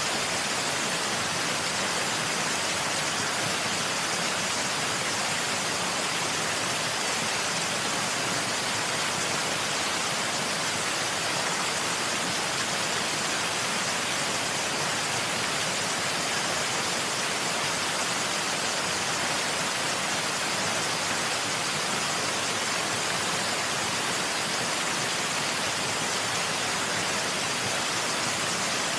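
Waterfall rushing: a steady, unbroken hiss weighted toward the high end, with little low rumble and no change in level.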